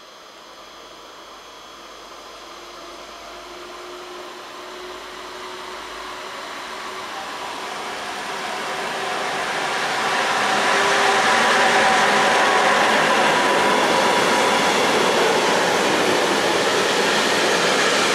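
DB class 185 electric locomotive (a Bombardier TRAXX) hauling an intermodal freight train of truck trailers on pocket wagons past on the station track. The rolling noise of the wheels on the rails grows steadily louder for about ten seconds as the train approaches, then holds steady as the loaded wagons roll by.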